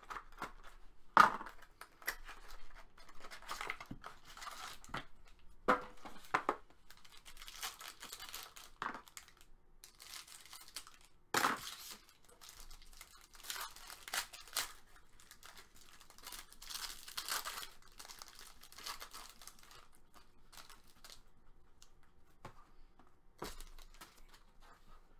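Hockey trading card packaging being torn open by hand: irregular tearing and crinkling of wrappers and box seals, with a few sharp louder rips.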